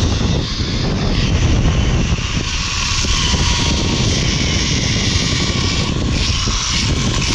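Zip-line trolley pulleys running fast along a steel cable with a steady high whir, while wind buffets the microphone with a heavy low rumble.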